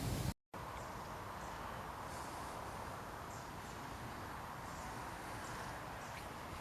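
Steady outdoor background hiss with faint, short high chirps of small birds scattered through it. The sound drops out for a moment near the start at an edit.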